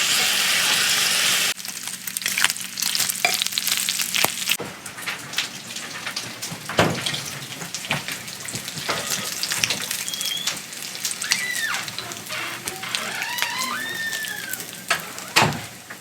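Bacon frying in a pan: a steady sizzle, louder for the first second and a half, then a crackling sizzle full of sharp pops of spitting fat.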